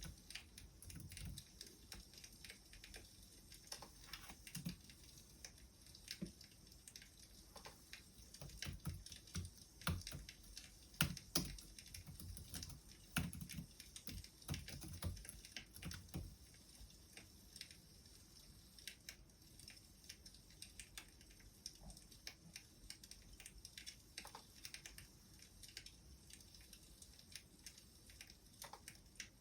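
Wood fire crackling: faint, irregular snaps and pops over a steady hiss, with a few louder low knocks in the middle.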